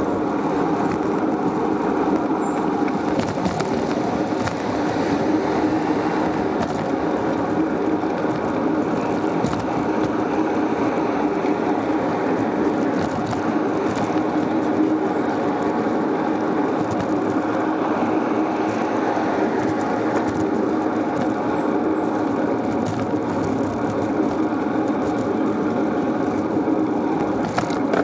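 Steady rushing road and wind noise of a moving bicycle, with a steady low hum underneath.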